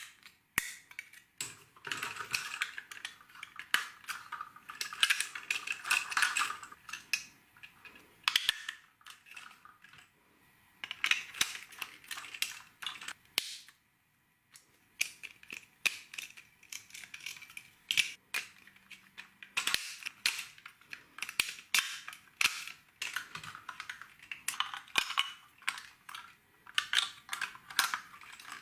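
LEGO bricks being handled and snapped together: quick runs of small plastic clicks and clatters, broken by a couple of short pauses.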